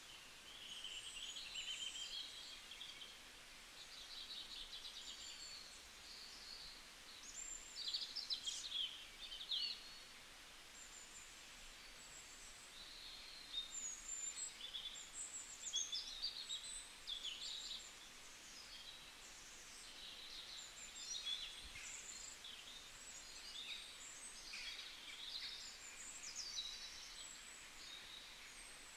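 Small birds chirping and twittering irregularly, in short high calls and quick pitch glides, over a faint steady background hiss.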